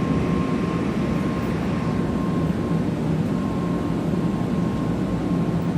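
Steady rumble and hiss of a Shinkansen train standing at a station platform, its equipment and air-conditioning running, with a thin steady high tone.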